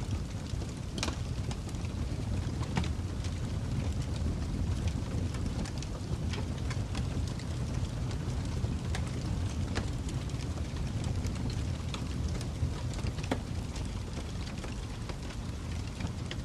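Wood fire crackling: a steady low rumble of flames with irregular sharp pops and snaps, several a second at the busiest moments.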